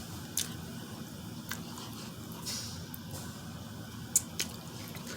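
Quiet mukbang eating sounds from a seafood boil: soft, wet chewing with a few faint sharp clicks.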